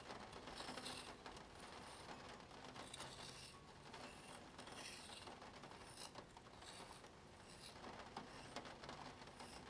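Plastic Spirograph gear wheel clicking and rasping round its toothed ring as a pen is driven across paper, in faint, short, repeated strokes.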